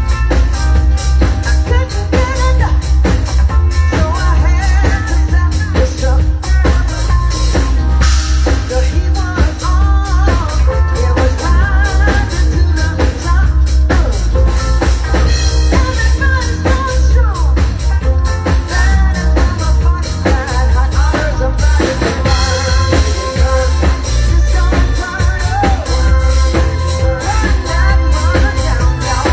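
Band music with a drum kit keeping a steady beat over heavy bass, with other pitched instruments over it.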